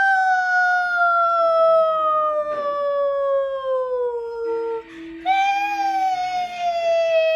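A person wailing in long, high, slowly falling notes, imitating the pitch of a kitten's crying. There are two long wails: the first fades out a little before five seconds in, and the second starts about half a second later.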